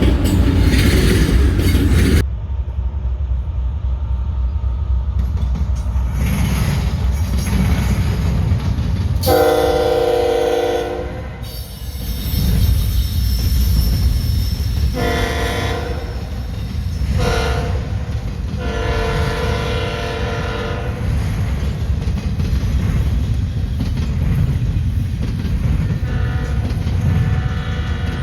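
Canadian Pacific GE ES44AC freight locomotive sounding its air horn in the grade-crossing pattern (long, long, short, long) over the steady rumble of the train. A fainter horn chord sounds near the end.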